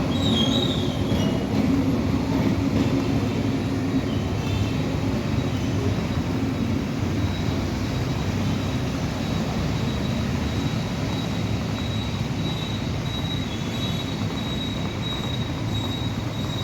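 Vietnam Railways push-pull passenger train running on the track with a steady rumble, and a thin, high wheel squeal that grows steadier toward the end.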